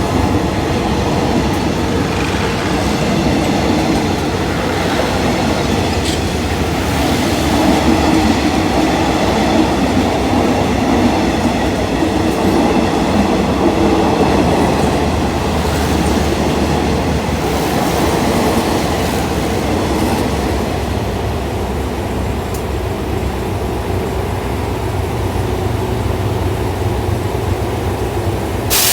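Train running on the rails: a steady rumbling noise with faint held tones over it, easing off slightly in the second half.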